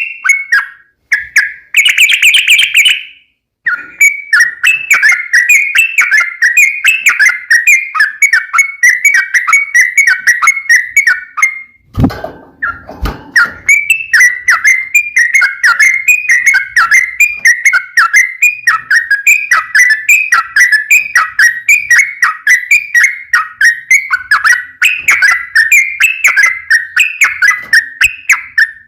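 Yellow-vented bulbul (trucukan) singing a long run of rapid, bubbling chirps, phrase after phrase. About two seconds in there is a short harsher burst, and near twelve seconds the song breaks off for about a second and a half, with two low knocks.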